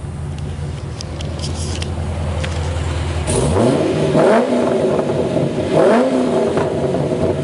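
2007 Chevrolet Corvette's LS2 V8 idling through a Borla aftermarket exhaust, then revved twice about halfway through, each rev rising sharply and dropping back to idle.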